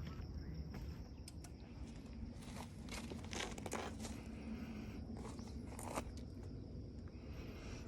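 Footsteps of a person hiking up a trail, an irregular run of steps and scuffs.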